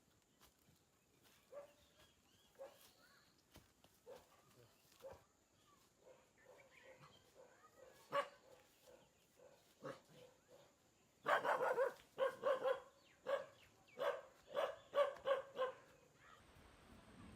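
A dog barking: faint, spaced barks at first, then a louder run of barks in quick succession in the second half.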